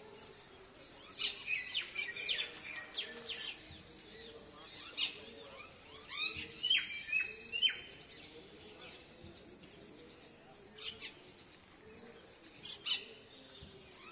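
Birds chirping and calling: quick clusters of short, high chirps and slurred calls in the first few seconds and again about six to eight seconds in, then a few scattered single calls.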